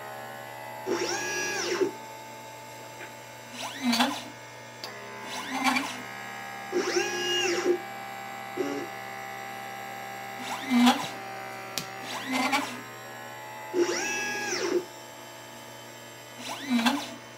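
LitePlacer pick-and-place machine's stepper motors whining through repeated head moves, each move's pitch rising and then falling, every few seconds over a steady hum.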